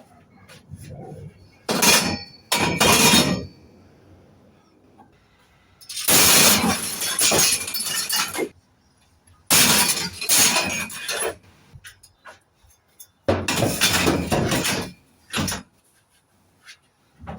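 Loose hard scrap pieces clattering and clinking together in a run of loud bursts of a second or two each, with small clicks between them.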